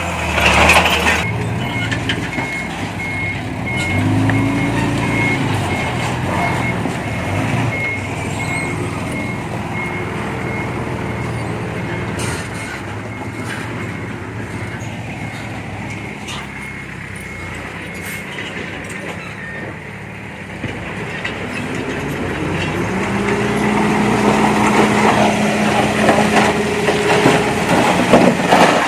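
Heavy diesel earthmoving machinery running, with a reversing alarm beeping at about two beeps a second for the first two-thirds, until it stops. Near the end the engine revs up and gets louder.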